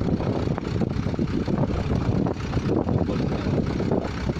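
Pneumatic drilling rig running: a steady, loud mechanical rumble with dense low-pitched noise.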